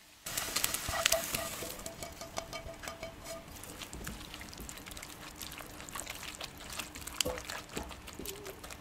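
Food frying in a hot pan: a dense sizzle and crackle that starts suddenly just after the start, loudest in the first second or so, then settles into a steady crackle.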